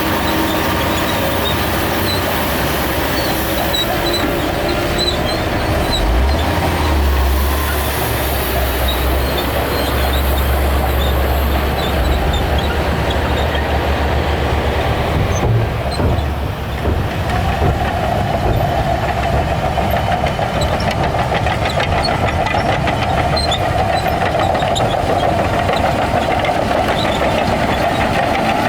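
Bulldozer's diesel engine running under load, with the steel crawler tracks clanking. The deep engine rumble grows heavier for several seconds a few seconds in, and a rattling clatter comes up past the middle.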